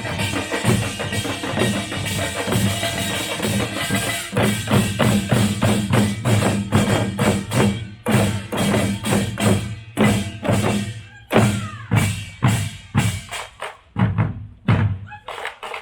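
Pungmul folk percussion band playing drums and small gongs in a fast, driving rhythm. The strokes are dense at first, then after about halfway turn into separate, heavier beats with brief breaks near the end.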